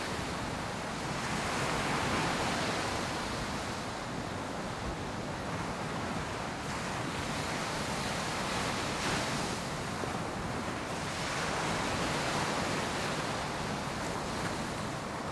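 Ocean surf on a beach: waves breaking and washing up the sand in a continuous hiss that swells every few seconds.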